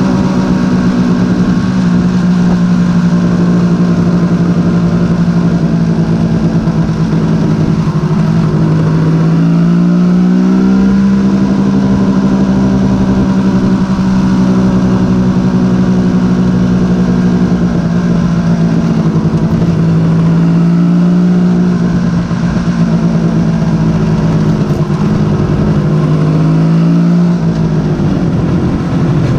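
Suzuki GT750's three-cylinder two-stroke engine running as the motorcycle rides along the road, with a steady engine note. The pitch rises about ten seconds in as the engine picks up revs, and drops again near the end.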